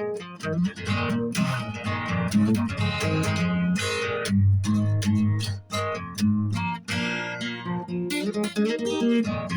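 A guitar played solo, plucked with the fingers in a flat-picking style: quick successions of single picked notes mixed with fuller chords.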